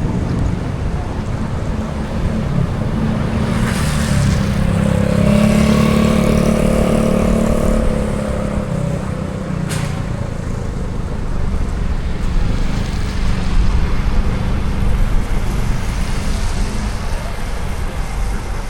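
Road traffic heard while driving: a steady low rumble of engines and tyres, with a vehicle's engine hum swelling and fading about a third of the way in. A single sharp click comes about ten seconds in.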